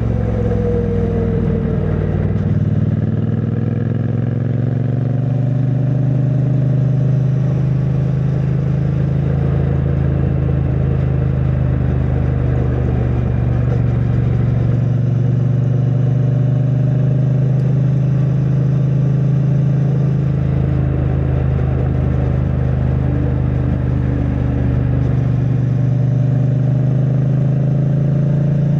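2022 Triumph Bonneville T100's 900 cc parallel-twin engine running through its stock exhaust while riding. The engine note shifts over the first couple of seconds, then holds steady at cruising speed.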